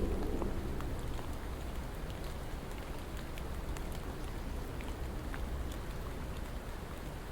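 Steady rain falling, with many individual raindrops ticking sharply over an even hiss. A low rumble dies away in the first second.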